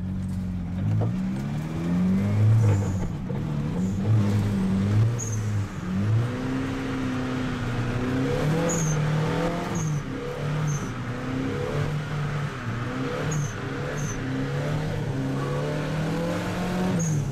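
Car engine heard from inside the cabin, revving up and down again and again as the car is driven hard around a circuit, with a few short high chirps.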